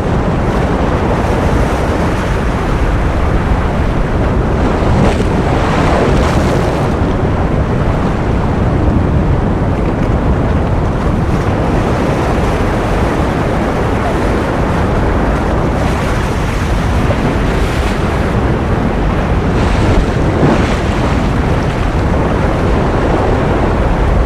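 Ocean surf: a steady, dense wash of waves. Now and then a wave breaks and the hiss swells brighter, about five, sixteen and twenty seconds in.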